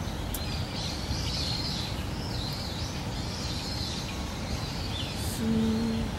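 Wild birds chirping and singing on and off, over a steady low outdoor rumble, with a brief low hum near the end.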